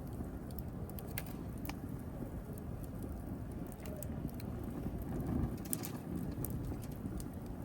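Wood fire burning in a fireplace: a steady low rumble of the flames with scattered sharp crackles and pops from the burning wood, several close together late on.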